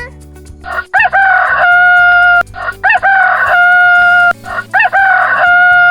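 Rooster crowing three times, each a loud cock-a-doodle-doo ending in a long held note, about two seconds apart, over quiet background music.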